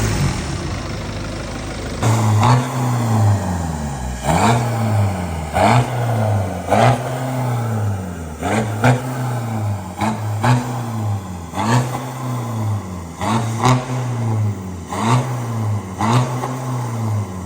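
BMW B47 2.0-litre four-cylinder turbodiesel with its DPF and EGR deleted and a dual exhaust, running steadily at first and then having its throttle blipped about once a second, each rev rising and falling back.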